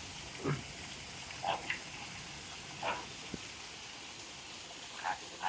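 Steady rush of running water, with a few short, faint calls over it.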